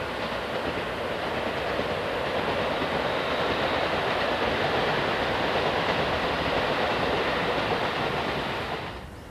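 JR Hokkaido 711 series electric multiple unit running along the track, a steady rumble of wheels on rail with some clickety-clack that swells gently and then cuts off abruptly near the end.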